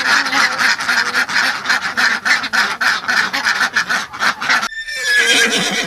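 A busy clamour of many farm birds calling at once. About four and a half seconds in it cuts to a horse whinnying, one wavering call that falls in pitch.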